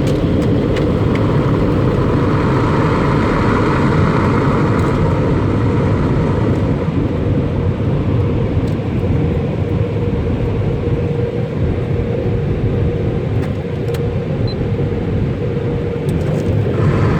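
Automatic car wash working over a car, heard from inside the cabin: a steady loud rush of water spray and brushes with a machinery hum, strongest in the first few seconds.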